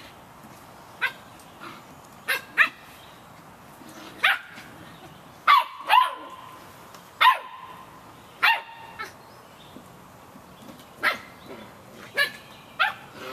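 Seven-week-old Samoyed puppies yapping: about a dozen short, sharp yaps at irregular intervals, a few of them sliding down in pitch.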